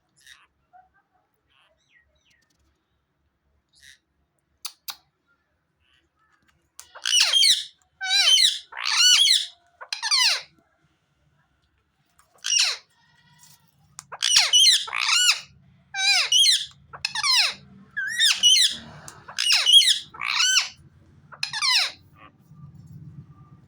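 A pet parrot calling: about sixteen loud, short squawks, each about half a second with a downward sweep in pitch, starting about seven seconds in and coming in quick runs.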